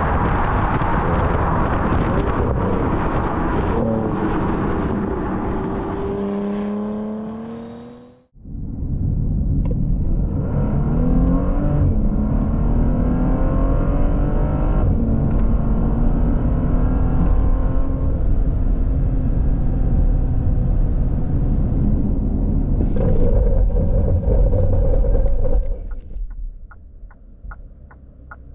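The Bentley Flying Spur Speed's 6.0-litre twin-turbo W12 engine under acceleration, its pitch climbing and dropping back through gear changes. The sound cuts out briefly about eight seconds in, then another rising pull follows. It falls to a much quieter engine note near the end.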